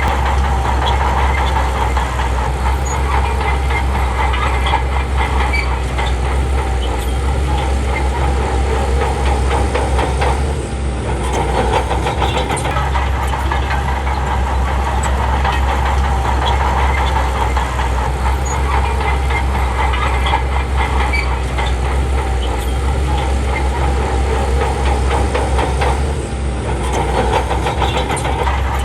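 Shantui crawler bulldozer's diesel engine running hard with a deep, steady rumble and a dense rattle. The engine note eases briefly twice, about a third of the way in and near the end.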